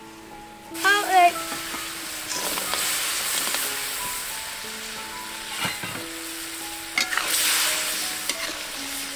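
Pork ribs tipped from a metal bowl into a wok of hot sauce, setting off loud sizzling about a second in that carries on as they fry. A metal ladle then knocks and scrapes against the wok a few times as the ribs are stirred. Soft background music plays underneath.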